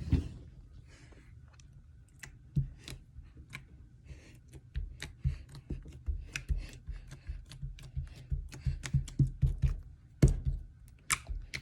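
Homemade slime being patted down and poked with fingers, giving an irregular run of small clicks and pops as trapped air squeezes out, sounding like a fart.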